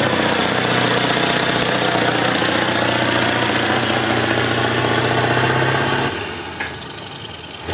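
Semi truck's diesel engine running hard under load at a steady pitch while pulling the sled. It eases off about six seconds in, leaving a high whine that falls slowly in pitch.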